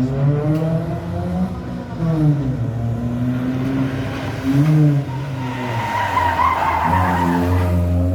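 Rally car engine revving up and down through a drift, with the tyres squealing for about two seconds near the end.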